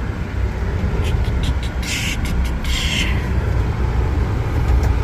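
Vehicle engine running with a steady low rumble, with a few short hissing bursts about two and three seconds in.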